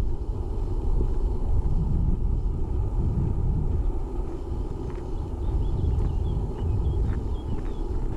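Wind buffeting the microphone, a steady, uneven low rumble.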